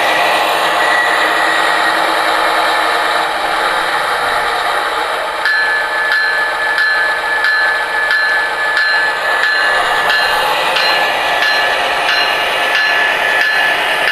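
MTH Premier Genset O-gauge model diesel locomotive running on its track: wheels on the rails, with its Protosound 2.0 diesel sound effects from the onboard speaker. About five and a half seconds in, a steady high tone joins, with even ticks about twice a second.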